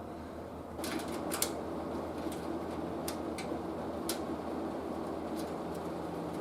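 Tube TV set coming on: a steady low hum, then about a second in a rushing static noise rises from the speaker, with scattered sharp crackling clicks.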